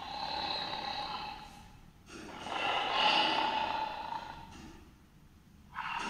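Recorded lion vocalisations played back: a series of grunting calls, each one to two seconds long with short pauses between them, and a new call starting near the end.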